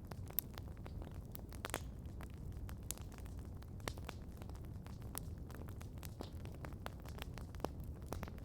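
Campfire burning, with irregular sharp crackles and pops from the burning wood over a low steady rumble of the flames.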